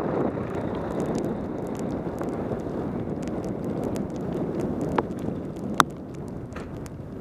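Steady rush of wind buffeting a helmet camera's microphone, mixed with wet tyre and road noise from a mountain bike descending fast in heavy rain. A couple of sharp ticks stand out about five and six seconds in.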